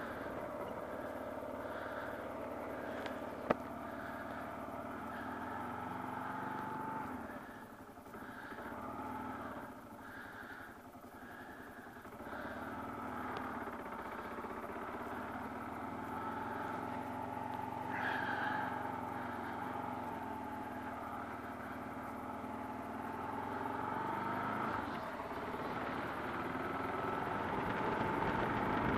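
Kawasaki KLR650 single-cylinder engine running under way, its pitch shifting as the bike eases off between about seven and twelve seconds in and then picks up again. A single sharp click about three and a half seconds in.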